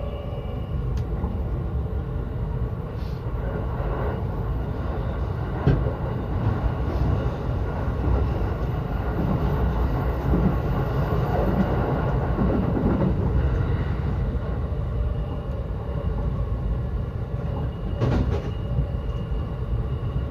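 Yokosuka Line commuter train running, heard from inside the carriage: a steady rumble of wheels on the track, with a few sharp clicks.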